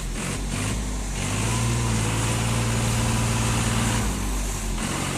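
A vehicle engine running hard. Its hum holds one steady pitch from about a second in and eases off around four seconds in.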